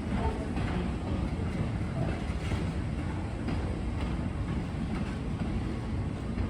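Passenger train of the Weiser Railroad in motion: a steady, even rumble of wheels running on the rails.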